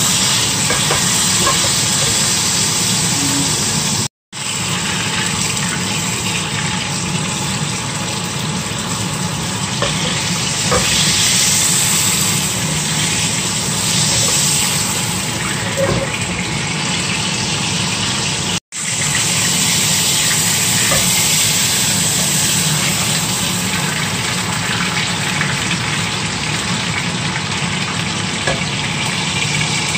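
Chicken pieces sizzling steadily in hot oil in a nonstick wok, over a steady low hum. The sound breaks off for an instant twice.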